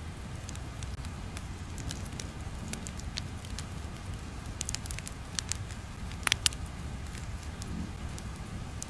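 Irregular crackling: sharp pops and clicks at uneven intervals over a steady low rumble, the loudest pops a little past six seconds in.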